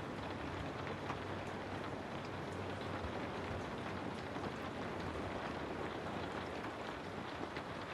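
Steady rain falling on a house: a dense, even hiss with scattered individual drops ticking through it.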